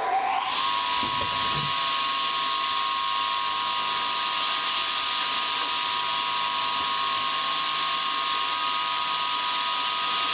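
Electric power saw spun up and running at full speed without cutting yet, giving a steady whine over a hiss; it settles at speed just after the start.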